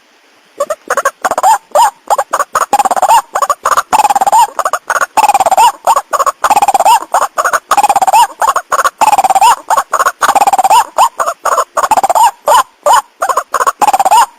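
White-breasted waterhen (ruak-ruak) calling loudly in a fast, choppy run of harsh notes, with a rising-and-falling phrase repeated about once a second; the calling starts after a brief pause. It is a recorded lure call of the kind played to draw in males and females.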